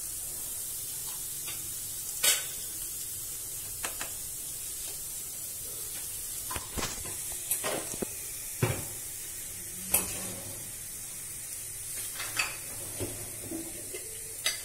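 Masala frying in oil in a kadai with a steady sizzle, while a metal spatula stirs it. The spatula scrapes the pan and knocks against it about a dozen times, at irregular intervals. The turmeric, red chilli and salt have just been added and are being fried into the onion base.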